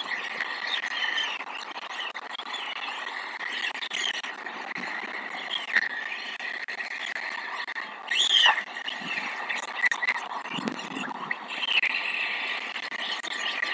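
Outdoor chorus of many small animal calls, short chirps and croaks overlapping steadily, with one louder falling call about eight seconds in.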